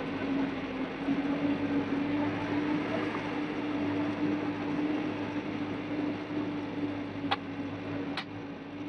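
Steady engine drone with a constant hum over a wash of noise, and two sharp clicks near the end.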